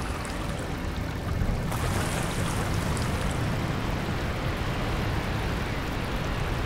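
Cartoon sound effect of rushing water: a steady rushing noise with a deep rumble underneath.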